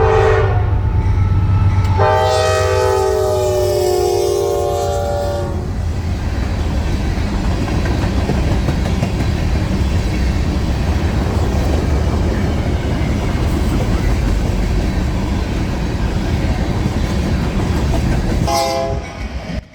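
Train passing with steady rumble and wheel clatter on the rails. The locomotive's air horn gives a brief blast at the start, then a long chord of about three seconds, and another short blast near the end.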